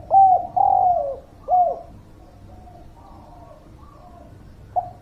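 Spotted dove (derkuku) cooing: a phrase of three loud coos in the first two seconds, the middle one longest, each dropping in pitch at its end. Fainter coos carry on behind it, and a new phrase starts just before the end.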